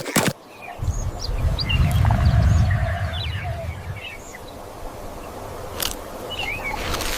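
Birds chirping with many short, quick calls, over a low rumble that swells in the first few seconds and then settles to a quieter steady background.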